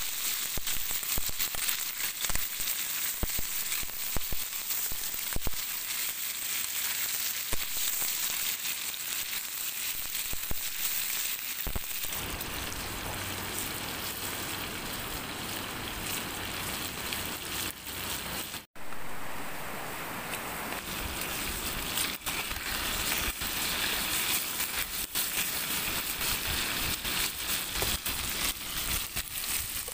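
Food sizzling and crackling as it fries in a hot pan, a steady hiss dotted with small pops. The sound briefly cuts out about two-thirds of the way through.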